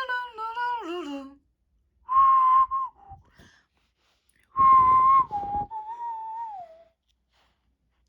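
A high whistle sounding twice: a short blast, then a longer one that drops in pitch and slides down at the end. Before it, a voice glides up and down.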